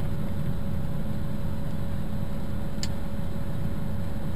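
Steady low road and engine rumble of a moving car, with one faint tick about three seconds in.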